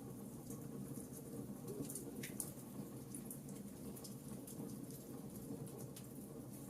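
Wood fire burning in a fireplace: a steady low hiss of burning with scattered small, sharp crackles, one stronger pop a little over two seconds in.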